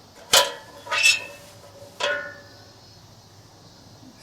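Large aluminium pot, cut into a fire pit, clanking three times as it is handled or set down, each knock ringing briefly like a bell.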